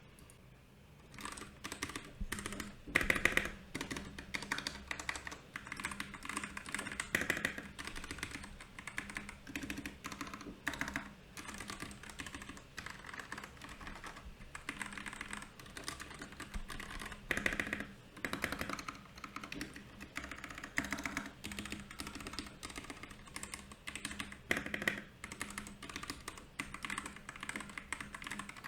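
Typing on a Royal Kludge RK68 mechanical keyboard, a fast, uneven patter of key clicks. After a brief lull at the very start, the typing runs on without a break, with louder clusters of strokes now and then.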